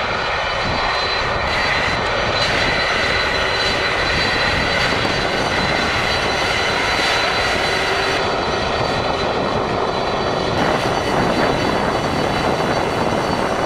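Jet airliner engines running loud and steady: a dense rush of noise with a high steady whine over it.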